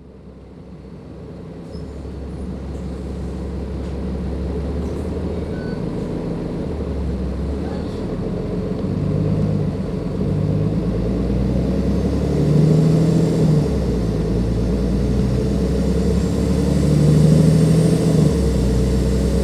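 Dennis Enviro 500 double-decker bus with a Cummins ISLe diesel engine, running and pulling away. The sound grows louder over the first few seconds, and the engine note rises and falls several times, with a high turbocharger whistle building in the later seconds.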